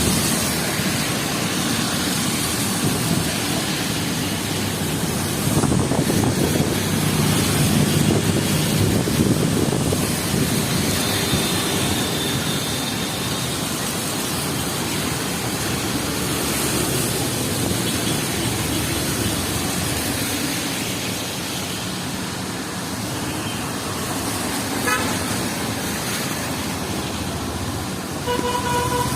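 Busy street traffic in heavy rain: a steady hiss of rain and wet road noise, with vehicles passing and car horns tooting now and then, once about two-fifths in and twice near the end.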